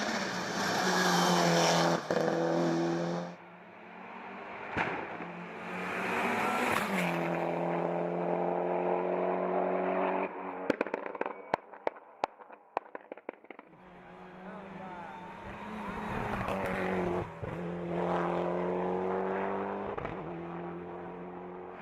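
Hill-climb race car engine at full throttle, climbing in pitch and dropping back at each upshift. About halfway through, the car lifts off and its exhaust gives a string of sharp pops and cracks on the overrun as the engine fades. Then engine sound builds again and rises through further gear changes.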